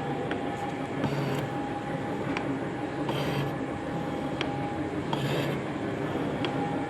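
Metal shaping machine running, its ram going back and forth in a steady cycle of about one stroke every two seconds. Each cycle brings a louder rushing stretch and a sharp click over a constant mechanical hum.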